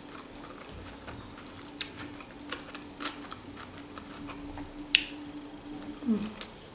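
Close-up eating sounds of a person picking at and chewing roast chicken with her fingers: scattered soft mouth clicks and wet chewing, the sharpest click about five seconds in. A faint steady hum runs underneath.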